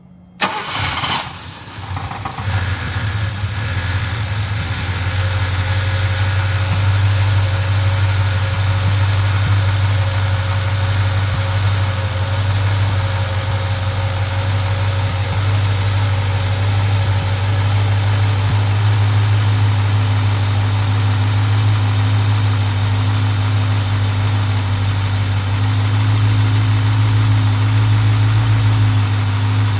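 Cold start of a 1971 Mercedes-Benz 280SE 3.5 Cabriolet's 3.5-litre V8: a short burst of cranking about half a second in, the engine catching, then a steady idle.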